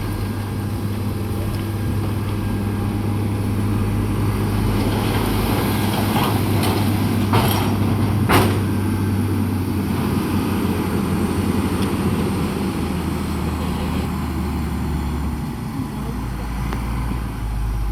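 Heavy diesel earthmoving machinery running steadily at a low engine drone, with two sharp clanks about halfway through, about a second apart.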